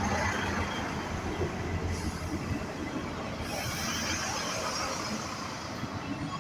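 Class 158 diesel multiple unit moving along the platform: diesel engine running under a steady rumble of wheels on the rails. About three and a half seconds in, a high hiss joins for about two seconds.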